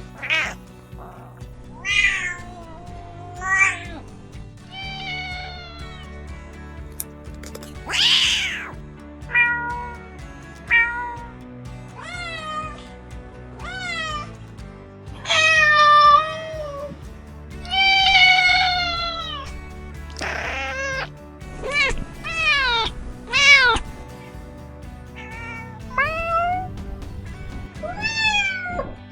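Domestic cats meowing, about twenty separate short meows one after another, several of them high-pitched, over a steady background music bed.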